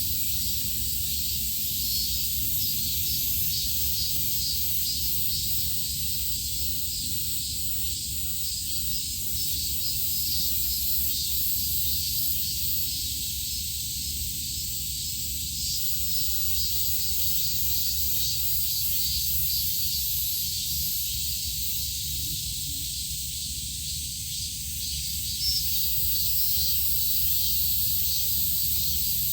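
Steady high-pitched outdoor hiss with a faint fast flicker in it, over a low rumble.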